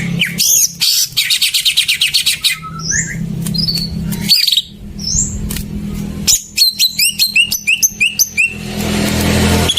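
Cucak ijo (greater green leafbird) song: varied chirps and whistles, a fast trill about a second in, and a quick run of rising notes a little past the middle, over a steady low hum. A lure recording used to prompt a caged cucak ijo that has gone quiet into singing.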